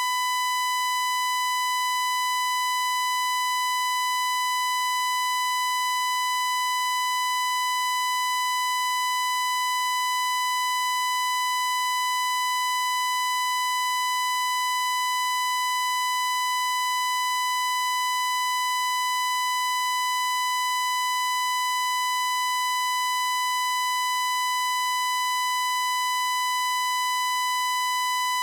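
A continuous, high-pitched electronic tone held at one unchanging pitch and level, with a buzzy edge.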